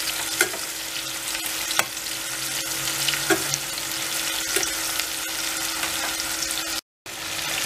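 Floured cubes of liver deep-frying in hot oil in a stainless steel pan: a steady sizzle, with a few sharp clicks of a metal spoon against the pan as the pieces are stirred. The sound drops out for a moment near the end.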